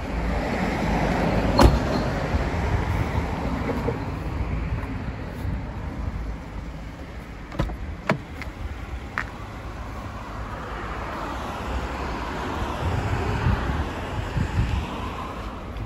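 Mercedes CLK320's 3.2 V6 idling as a steady rumble, heard through the open top of the convertible, with a few light clicks.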